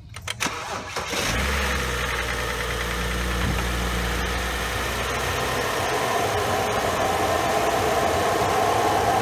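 2011 BMW 535i's turbocharged 3.0-litre inline-six being started: brief starter cranking, catching about a second in, then settling into a steady idle. This is the first run after refilling the coolant, to circulate it through the new upper radiator hose.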